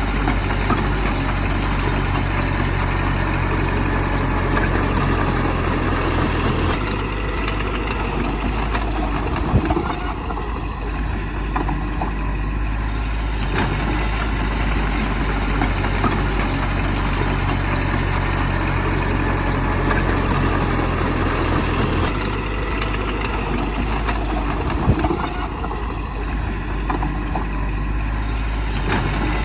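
Heavy diesel engine of a bulldozer running steadily. Its note drops and shifts about 7 seconds in and again about 22 seconds in, as its load changes. A sharp clank comes near 10 seconds and again near 25 seconds.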